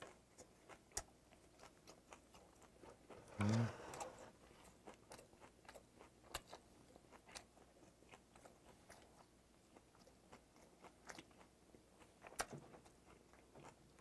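Close-up chewing and mouth sounds from a person eating seasoned green onion salad: faint wet clicks and small crunches scattered throughout, with a brief low voice sound about three and a half seconds in.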